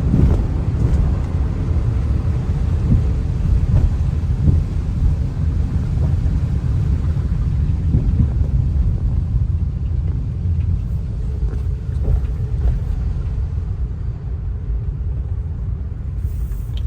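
Steady low rumble of a vehicle on the move, with a few faint knocks, easing a little near the end.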